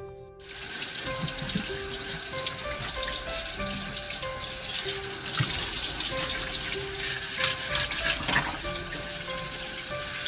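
Tap water running into a sink, starting about half a second in, with background music notes over it.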